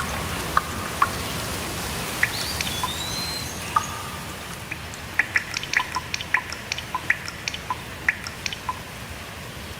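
Steady rainfall hiss with a single bird whistle, rising then held, about a quarter of the way in. In the second half comes a quick irregular run of sharp water drips, about three or four a second.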